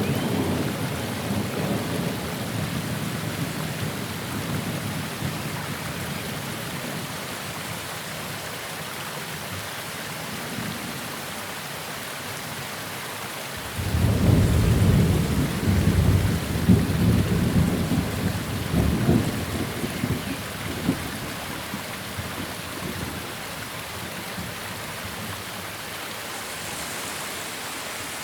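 Steady rain falling in a thunderstorm. The rumble of thunder dies away over the first few seconds, then a second peal breaks suddenly about halfway through and rumbles for several seconds before fading back to the rain.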